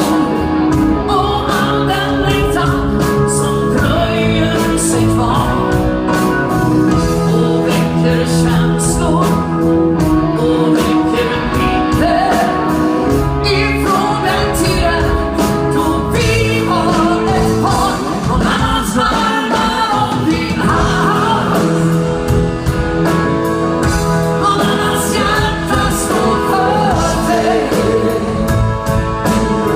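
Band playing a song with a lead singer, over a steady drum beat.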